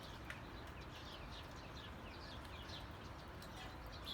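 Faint night-time chorus of short, high, downward-sliding chirps repeating irregularly, over a low steady background.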